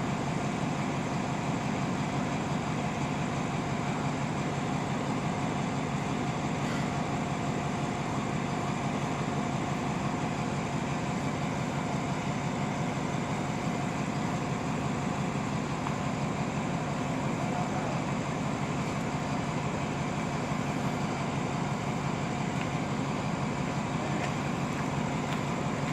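Steady, unchanging hum of a stopped diesel train idling at the platform: an even low rumble with a constant tone running through it.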